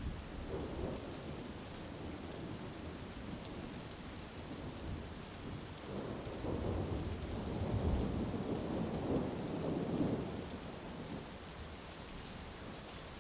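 Heavy rain falling steadily, with a long low roll of thunder that swells about six seconds in and fades away after about ten seconds.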